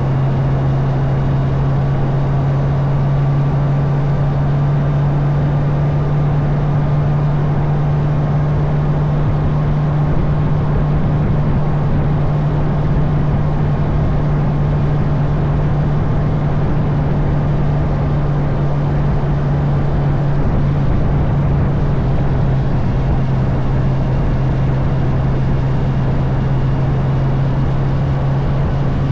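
Honda CB650R's inline-four engine running at a steady, unchanging engine note while cruising, under a constant rush of wind and road noise.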